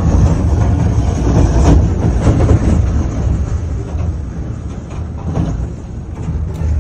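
Freight train derailing: covered hopper cars rumbling and scraping along the track in a heavy, continuous low rumble with scattered cracks and clatter, heard from inside a vehicle. The rumble eases off over the last couple of seconds.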